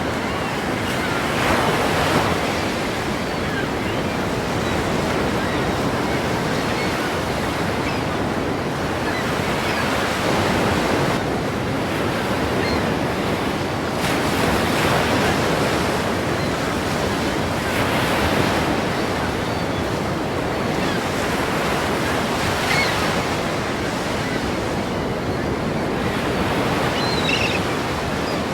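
Ocean surf rushing steadily, with waves breaking in louder surges every few seconds.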